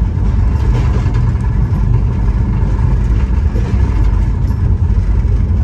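Passenger train in motion: a steady low rumble of wheels on track and the moving coach, heard from inside an air-conditioned chair car.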